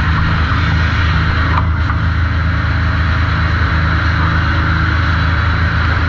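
Sawmill machinery running steadily: a low mechanical hum under a steady hiss, with a brief dip in the hiss about a second and a half in.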